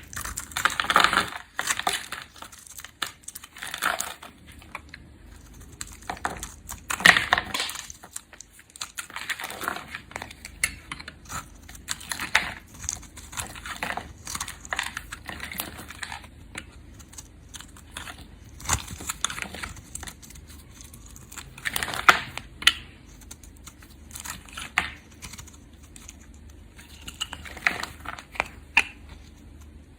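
A knife cutting through soap: a series of crisp scraping, crumbling strokes at uneven intervals, with a few much louder cuts among them.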